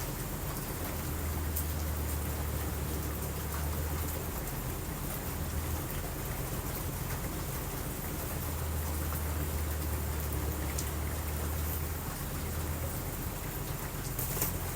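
Steady rain falling. A low rumble swells underneath from about one to four seconds in and again from about eight to eleven seconds, and a few faint clicks sound above it.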